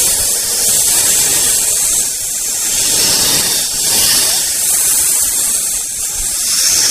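Snake hissing: one continuous hiss that swells and eases about every three seconds.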